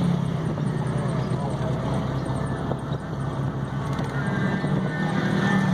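Truck engine running steadily with a low-pitched tone that shifts slightly about four seconds in.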